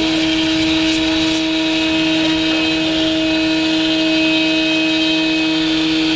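Brushless electric motor and propeller of an E-Flite AT-6 Texan RC plane running flat out at full throttle while the plane is held for a static thrust test: a loud, steady whine that holds one pitch throughout.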